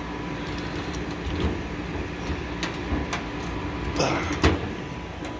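A few clicks and knocks from handling the beer sign and plugging in its power cord, the loudest about four seconds in, over a steady low hum.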